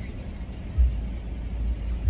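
Car engine idling, heard from inside the cabin: a steady low rumble, with a heavy low thump about a second in.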